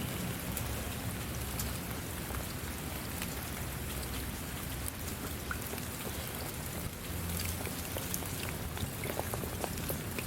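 Steady rain falling, with many individual drops ticking sharply on a surface over a low rumble.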